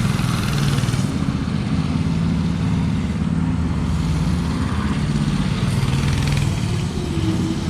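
Small go-kart engine running as the kart is driven around, its pitch shifting up and down with the throttle.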